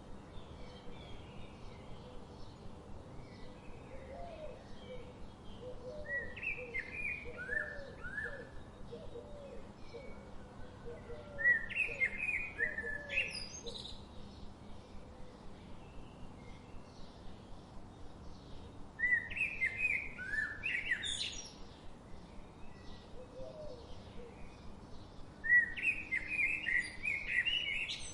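Birdsong: one bird repeats a short, quick song phrase about every seven seconds, each ending in a rising sweep, with fainter chirps and calls in between.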